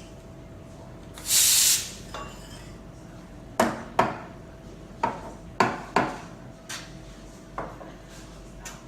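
A brief loud hiss of steam from the espresso machine's steam wand, then a series of sharp clinks and knocks of dishes and metal ware being handled, about eight in all. A faint steady machine hum runs underneath.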